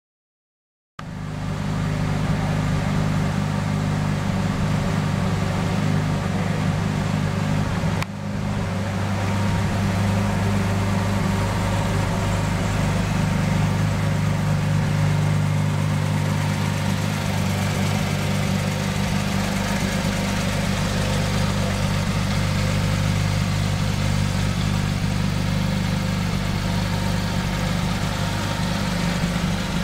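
2010 Porsche 911 GT3's 3.8-litre flat-six idling steadily, starting about a second in, with a brief dip near eight seconds.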